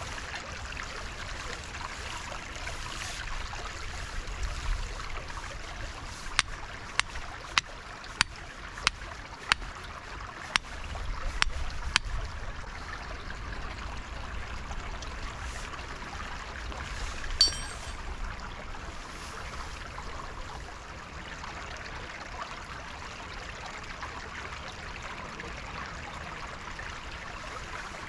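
Woodland stream running steadily. About six seconds in comes a run of about ten sharp clicks, a little over half a second apart, and one more click with a short ringing tone comes several seconds later.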